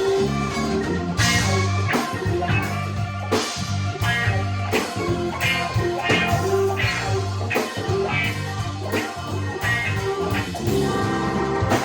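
Rock band playing an instrumental break, guitar to the fore over bass and drums, with no vocals.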